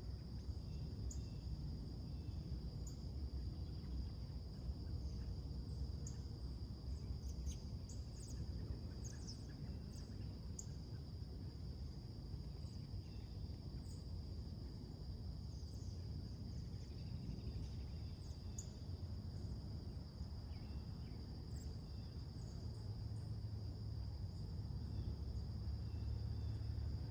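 Steady high-pitched trilling of late-summer insects such as crickets, with scattered short bird chirps over a steady low rumble that swells slightly near the end.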